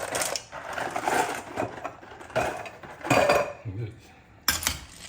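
A utensil clinking and scraping against a cooking pot as pasta is stirred, with a sharper knock near the end.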